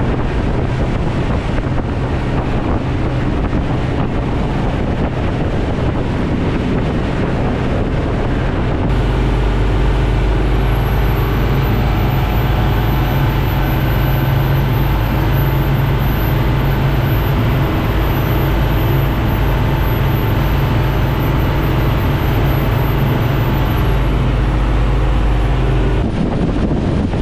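Fishing boat's engine running steadily at speed, mixed with rushing wind and water noise. About nine seconds in the sound shifts abruptly to a heavier, deeper engine drone, and it shifts back near the end.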